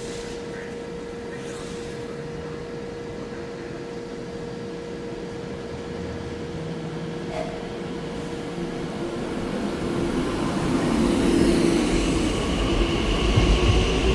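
Electric train growing steadily louder, with a steady electric hum and, from about eleven seconds in, a rising motor whine as it picks up speed.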